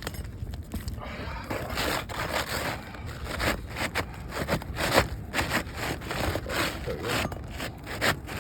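A new asphalt shingle being worked into place under the overlapping shingles on a roof with three layers: irregular gritty scraping and rustling with sharp clicks.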